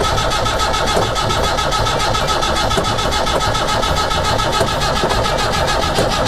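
1981 Land Rover Series III engine being cranked over by its starter motor in a steady, even rhythm without firing: the engine is not starting, which the owners put down to fuel not yet pumped through.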